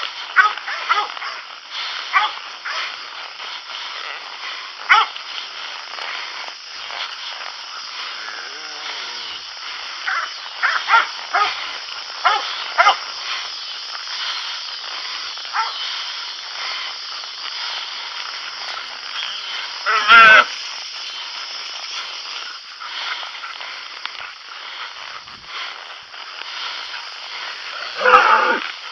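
Cattle dogs barking in short, scattered bursts through a steady outdoor background haze, with two louder, drawn-out calls, one about two-thirds of the way through and one near the end.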